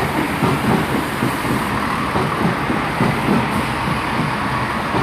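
Three-unit Class 165 diesel multiple unit running into the station, a steady rumble of its diesel engines and wheels on the rails.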